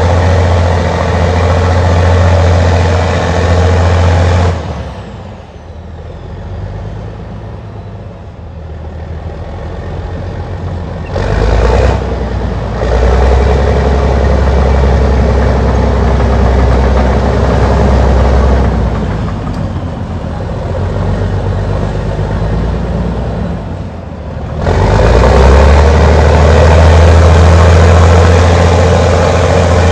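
Allis-Chalmers HD-21 crawler dozer's diesel engine working under varying load. It drops off sharply about four seconds in and stays low for several seconds, comes back up around the middle, eases off again, then runs at full effort near the end.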